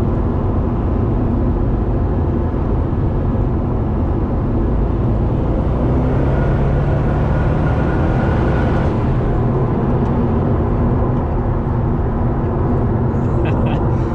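Twin-turbo 427 V8 Corvette driving, engine and road noise heard from inside the car. A hiss rises from about six seconds in and falls away near nine seconds.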